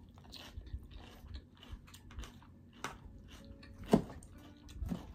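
Close chewing and crunching of a mouthful of raw salad with broccoli slaw, along with a fork clicking and scraping in a plastic tub. A sharper click comes about four seconds in.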